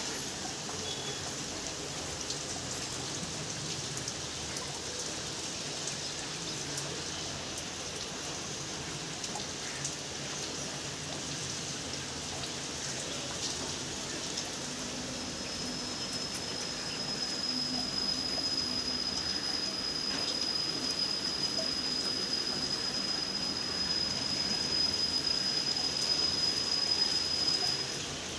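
Steady rain falling, an even hiss of drops on surfaces. About halfway through a thin, steady high-pitched tone joins in and stops shortly before the end.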